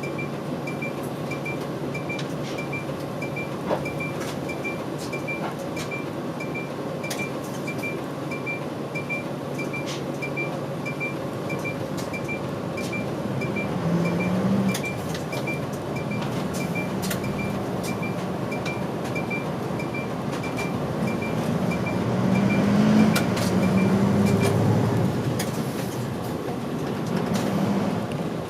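Inside a diesel city route bus: engine and road noise, with the turn-signal indicator beeping regularly, about one and a half times a second, until it stops near the end. The engine note rises about halfway through and again near the end as the bus accelerates.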